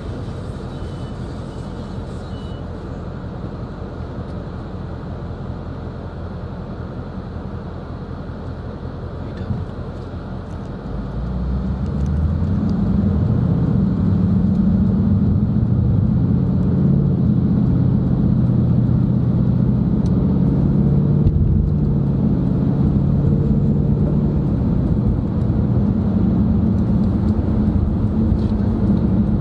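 Steady engine and road noise heard from inside a moving car's cabin. About eleven seconds in it grows louder and the engine note climbs as the car speeds up.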